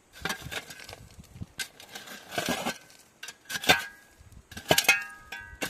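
Irregular clinks and clatter of hard objects, like dishes or metal utensils being handled, a few of them ringing briefly near the end.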